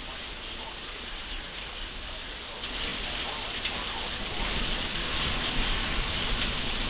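Heavy rain pouring down in a severe thunderstorm, a steady hiss that grows heavier about two and a half seconds in.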